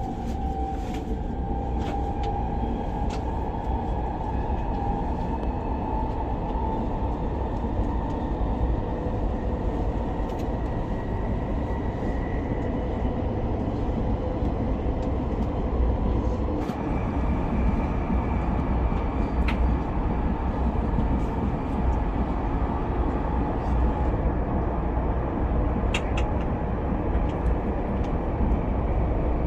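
Cabin sound of an SRT high-speed train (SR 120000-series electric multiple unit) running at speed: a steady low rumble of wheels on rail, with a motor whine that rises slowly in pitch over the first ten seconds or so as the train gathers speed. A few brief clicks come through near the end.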